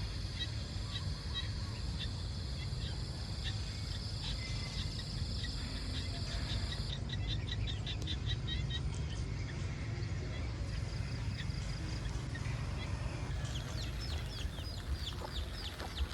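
Birds chirping in short repeated calls over a steady low rumble, with a quick run of descending chirps in the last few seconds.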